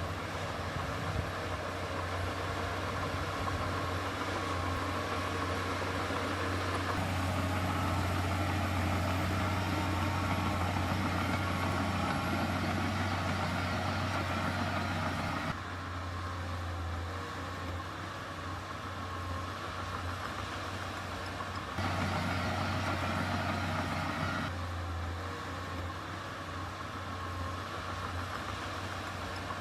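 Diesel engine of heavy earthmoving machinery running steadily with a deep hum. The sound jumps abruptly in level and tone several times.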